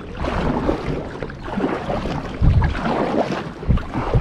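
Wind buffeting the microphone over water noise around a kayak, with two strong low gusts, one about two and a half seconds in and one near the end.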